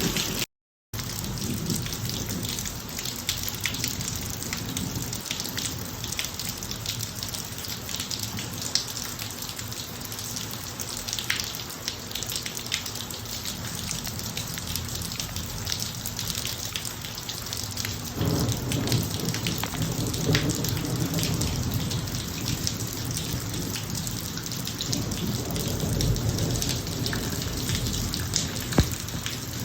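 Steady rain falling on a driveway, with the patter of many individual drops. A low rumble of thunder swells about two-thirds of the way through and again near the end; the sound cuts out completely for a moment just under a second in.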